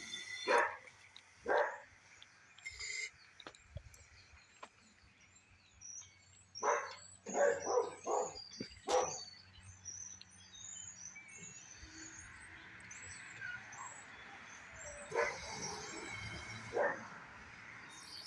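A dog barking in short scattered barks, several in quick succession partway through, with small birds chirping faintly in the background.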